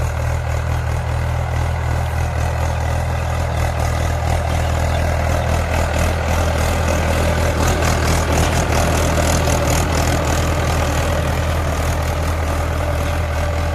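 Mahindra 475 DI tractor's four-cylinder diesel engine running steadily with an even, low hum.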